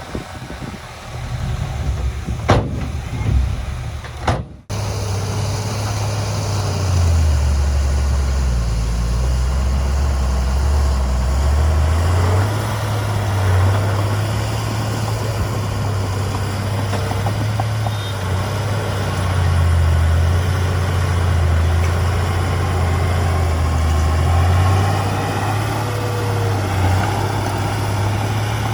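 Heavy diesel engine of a construction machine running with a steady deep drone. About four and a half seconds in, after a couple of sharp knocks, the sound cuts out for an instant and comes back louder.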